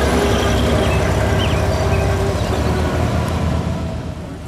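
Engine of the 1938 Buick Y-Job, a straight-eight, running as the car drives at low speed, its rumble easing off near the end.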